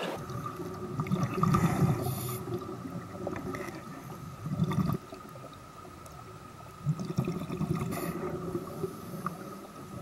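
River water running and gurgling at a waterfall, with uneven low swells of churning water.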